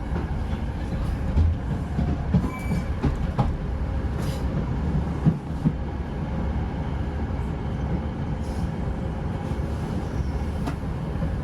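British Rail Class 156 diesel multiple unit running along the line: a steady rumble of wheels on rail, with a few scattered clicks from the track.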